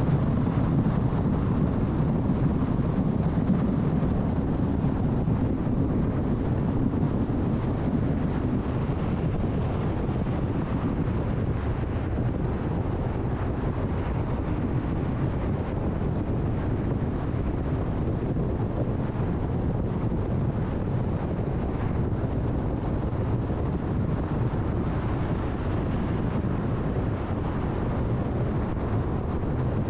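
A car driving at freeway speed: a steady rumble of tyres and road noise with wind, slightly louder for the first several seconds.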